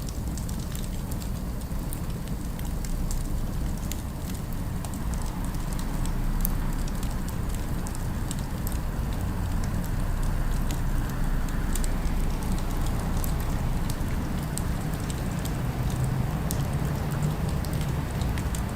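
Wood fire crackling, with scattered sharp pops over a steady low rumble of city ambience.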